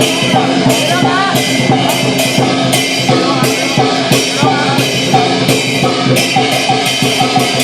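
Chinese lion dance percussion: a drum and clashing cymbals beaten in a steady, driving rhythm, about two crashes a second.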